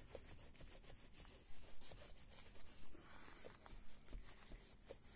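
Faint rubbing and scuffing of a rag wiping old grease off a door limiter, with a few light clicks.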